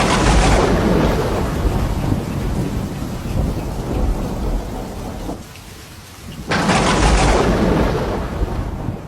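Thunder over steady rain: a loud clap right at the start rumbles on for about five seconds, then a second clap breaks about six and a half seconds in, with the hiss of rain beneath.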